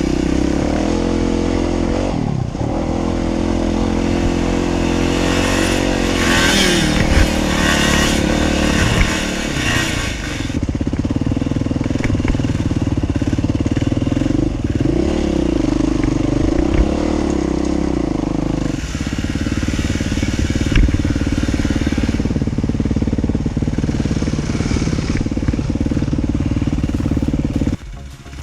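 Dirt bike engine running under changing throttle while riding a trail, its pitch dipping and picking up again several times. The engine sound drops away abruptly near the end.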